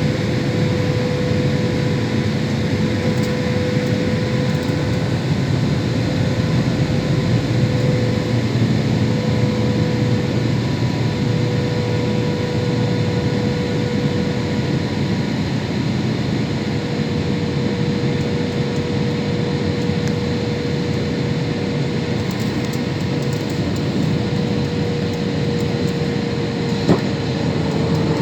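Steady roar inside the cabin of a Boeing jet airliner in flight, engine and airflow noise with a constant whine running through it. A brief click sounds near the end.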